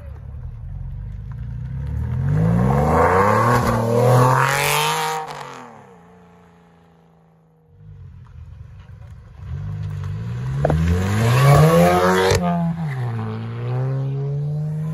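Performance cars accelerating hard away from a standing crowd, the engine note climbing through the gears in two separate pulls. The first dies away to near quiet halfway through, then a second car pulls hard, with a sharp crack near the end of its climb.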